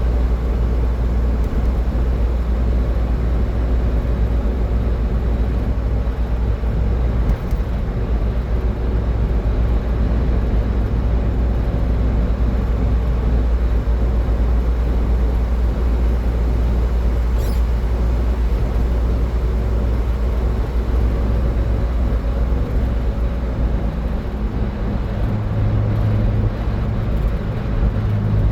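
Car driving at highway speed: steady low rumble of road and engine noise with tyre hiss. A low droning tone joins in near the end.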